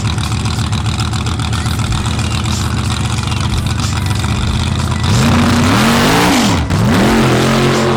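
Drag-race car engines running at the strip. About five seconds in, one engine is revved hard: the pitch climbs, falls back, drops sharply and climbs again, then holds steady.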